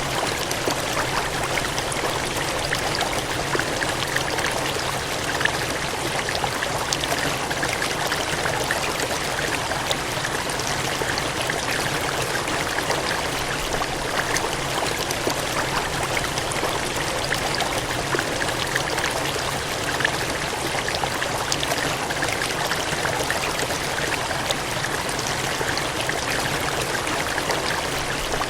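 Cascading water gushing in a steady, even rush, with fine splashing throughout.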